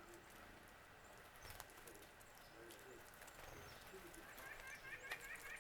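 Faint wild birds calling: scattered short chips and low calls, then, near the end, a quick run of repeated notes.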